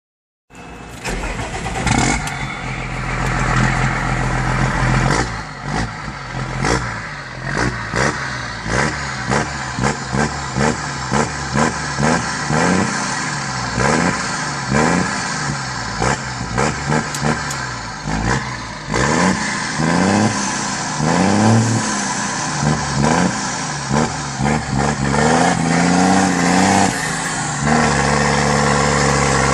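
John Deere 6920 tractor's six-cylinder diesel running through a straight-pipe exhaust. It is blipped in short quick revs again and again, then revved up and down in slower swells, and holds a steady higher speed near the end.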